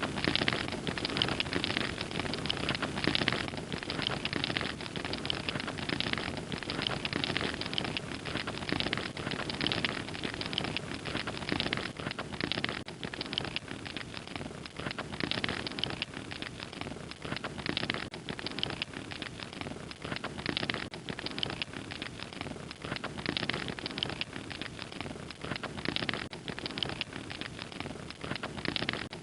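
Fire crackling, a dense stream of small pops and snaps over a steady low hiss.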